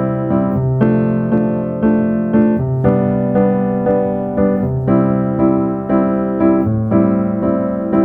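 Electric piano music playing a steady pattern of chords, about two to three a second, over a slowly changing bass note.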